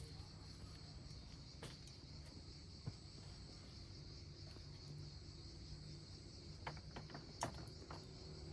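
Steady high-pitched chirring of crickets over a faint low rumble, with a few sharp clicks or knocks, most of them near the end.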